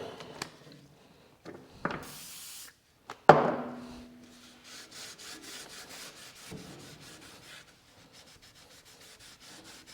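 Scratchy rubbing of a bristle brush, steel wool and rag over the lathe's cast-iron bed ways as they are cleaned of metal filings and paint. There is a short hiss about two seconds in, then a sharp metallic clink with brief ringing a little after three seconds, followed by light, uneven scrubbing strokes.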